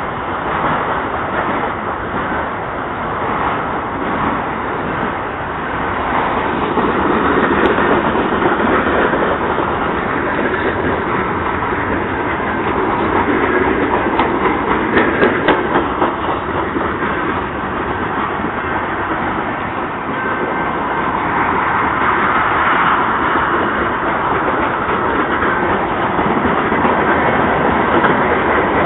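Norfolk Southern freight train's cars rolling past at close range: a steady rumble of steel wheels on rail, with a run of sharp clicks from wheels crossing rail joints about halfway through.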